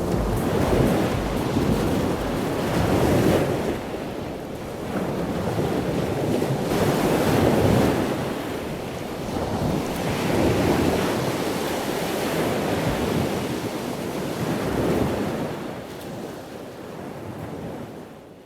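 Waves breaking on a beach, the surf swelling and easing every few seconds, with wind buffeting the microphone; it fades out near the end.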